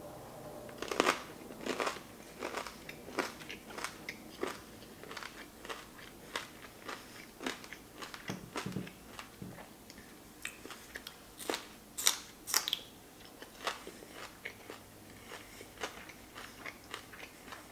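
Close-miked crunchy chewing of crispy air-fried rice balls and sashimi, with crisp crunches about twice a second. A couple of sharper, louder crunches come about twelve seconds in as raw green onion stalks are bitten.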